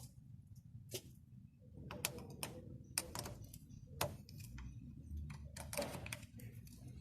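A series of irregular light clicks and knocks, like small objects being handled, a few louder than the rest.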